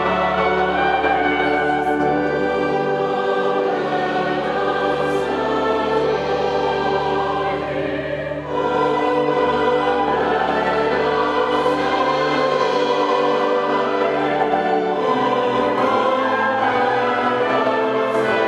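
Choir singing with orchestral accompaniment, with a brief break between phrases about eight seconds in.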